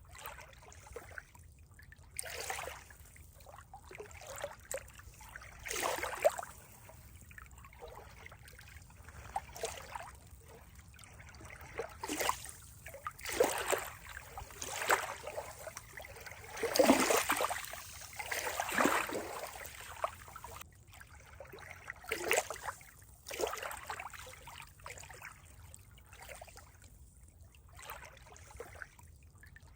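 Water trickling and gurgling in irregular small splashes, a few each second, with a louder cluster of splashes about halfway through.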